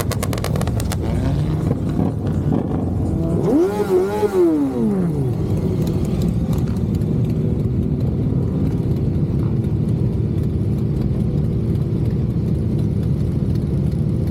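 Motorcycle engines running steadily, with one engine note rising in pitch about three and a half seconds in, then falling away over the next second and a half.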